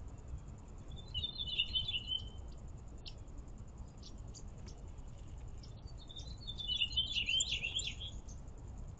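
A small songbird sings two short, quick, twittering phrases, the second one about six and a half seconds in, longer and louder than the first.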